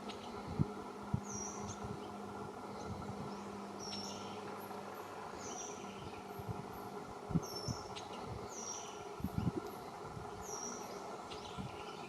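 A bird's short, high call notes, about eight of them repeated roughly once a second, over a steady insect drone.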